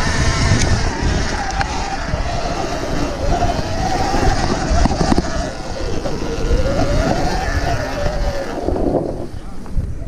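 Surron Ultra Bee electric dirt bike being ridden over rough trail: the electric motor's whine rises and falls with the throttle over heavy rumble and knocks from the bumpy ride. The whine dies away near the end.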